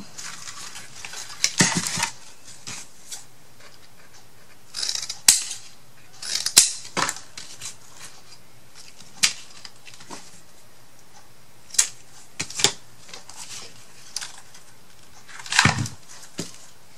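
Scattered sharp taps, clicks and brief rustles of paper and chipboard pieces being handled and pressed down on a work table, about a dozen in all, with the loudest cluster about five to seven seconds in.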